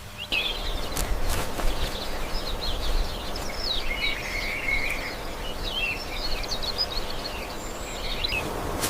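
Birds chirping: a busy run of quick, high chirps over steady background noise, stopping shortly before the end.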